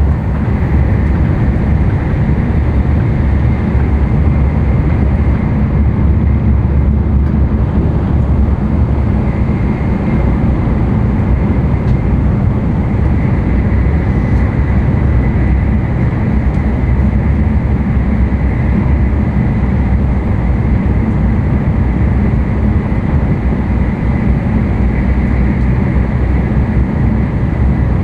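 Running noise inside an N700-series Tokaido Shinkansen car at speed: a loud, steady low rumble with a faint high tone held above it.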